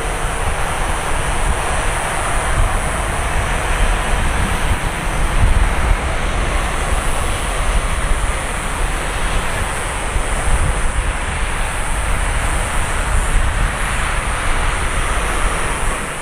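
Boeing 737-800's jet engines running steadily after landing, under heavy wind buffeting on the microphone.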